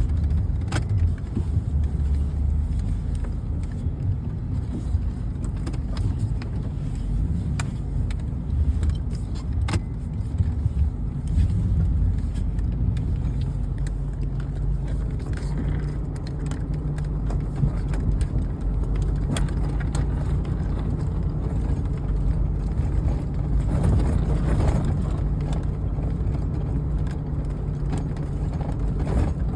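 A vehicle engine running steadily, heard with a few sharp clicks or knocks.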